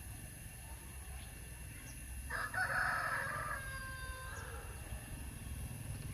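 A rooster crows once, starting about two seconds in and lasting around two seconds, over a steady low rumble.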